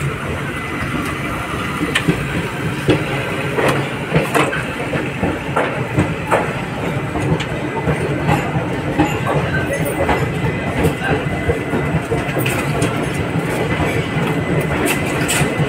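Indian Railways express passenger coach rolling out of a station, heard from its open door: a steady rumble of the wheels on the track with irregular clicks and knocks.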